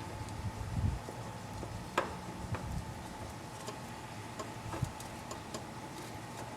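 Scattered light clicks and taps of a new oil filter being handled and worked up into its housing, the sharpest click about two seconds in.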